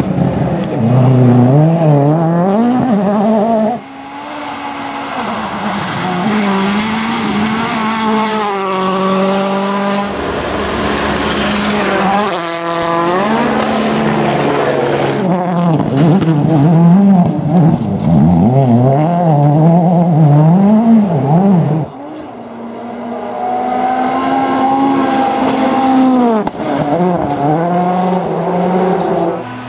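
World Rally Car engines, 1.6-litre turbocharged four-cylinders, revving hard and changing gear, the pitch climbing and dropping over and over as the cars are driven flat out. The sound breaks off abruptly several times as a new car takes over.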